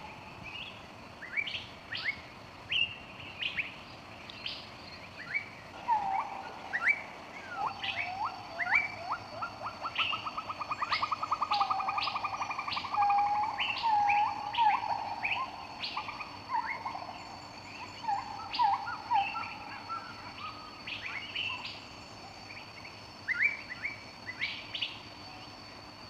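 Several birds calling: many short, sharp chirps throughout, with a fast trill and lower whistled notes in the middle. A thin, steady high tone joins about eight seconds in.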